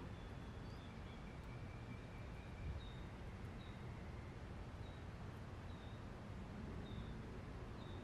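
Faint birds calling outdoors: short high chirps repeated every second or so, and a thin held note lasting about three seconds near the start. Beneath them runs a low, steady rumble of wind.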